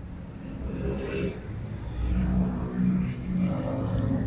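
A road vehicle's engine running and speeding up nearby, swelling from about halfway through.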